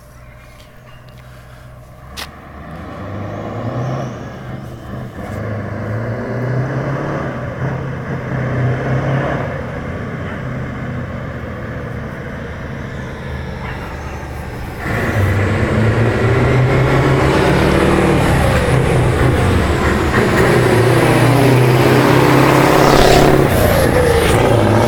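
Scania 143 500 V8 truck with straight-pipe exhausts running and drawing near. The low engine note builds from about three seconds in and gets much louder suddenly about fifteen seconds in as the truck comes close. Its pitch shifts up and down near the end.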